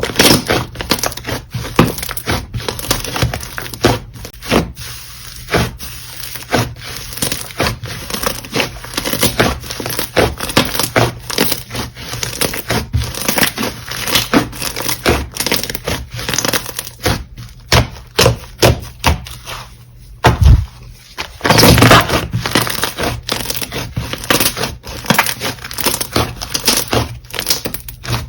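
Slime being squished and kneaded by hand, with a dense run of crackling clicks and pops. A louder low thump comes about twenty seconds in.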